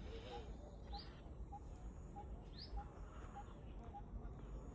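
Birds calling: one repeats a short, low, single-pitched note evenly about every two-thirds of a second, while another gives a quick rising call about three times.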